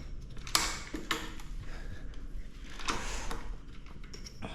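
Folding e-bike's handlebar stem being unlatched and folded down: a few sharp metal clacks and rattles.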